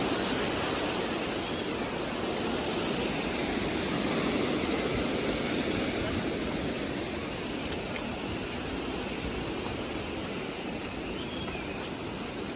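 Steady rushing noise of flowing water, easing slightly over the seconds, with a few faint short high chirps.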